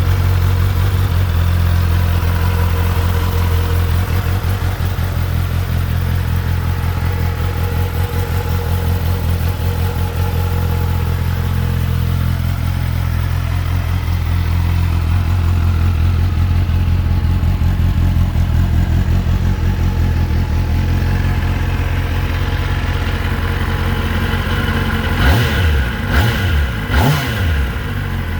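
Kawasaki Ninja ZX-10R's inline-four engine idling steadily, then revved in three quick blips about three seconds before the end.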